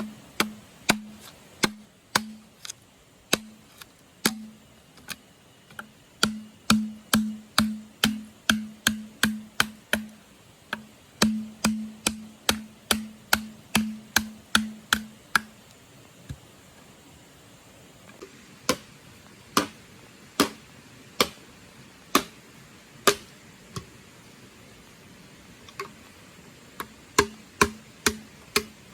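Repeated sharp knocks of a tool striking wood, each with a short hollow ring, coming in quick runs of about two a second in the first half and more sparsely later.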